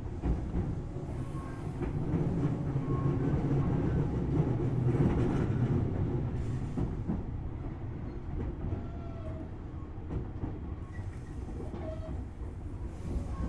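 Tobu Railway Series 6050 electric train (resistor-controlled, Hitachi equipment) running along the line, heard from inside motor car MOHA6172: wheels on the rails and running gear, swelling about four to six seconds in, then easing.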